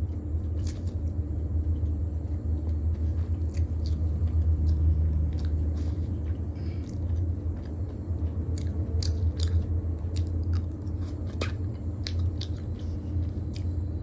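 Close-miked chewing of a mouthful of Chinese takeaway food, with many short, sharp mouth clicks through the chewing. A steady low hum runs underneath.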